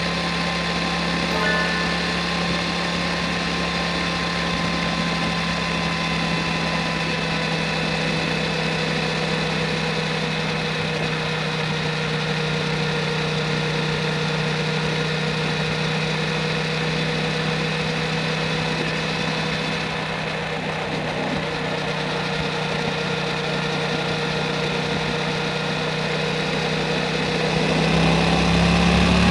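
Yamaha MT-07 parallel-twin engine running steadily through an Akrapovic Racing Titan full exhaust. Near the end the revs and loudness begin to rise.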